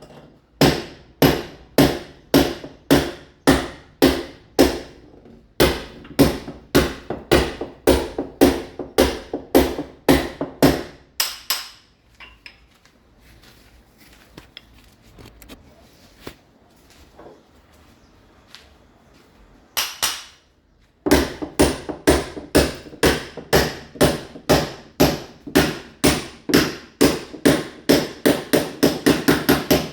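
Hammer strikes chipping (roughening) a masonry wall to key it for ceramic tile, a steady rhythm of about two blows a second. The blows stop for about eight seconds in the middle, leaving only faint scraping noise, then resume and quicken near the end.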